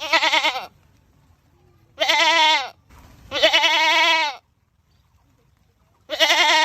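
Goat screaming: four loud bleats with a wavering, quavering pitch, each under a second long, with short pauses between them.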